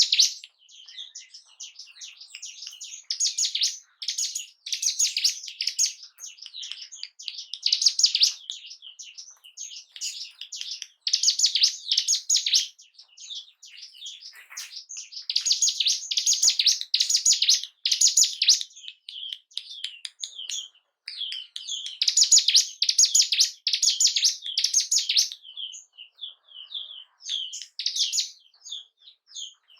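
Ciblek gunung singing: repeated bursts of rapid, high chattering song, each a second or two long, with short gaps and scattered single chirps between them.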